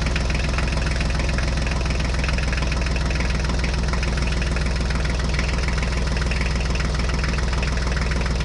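Engine idling steadily with a fast, even beat and a strong low hum.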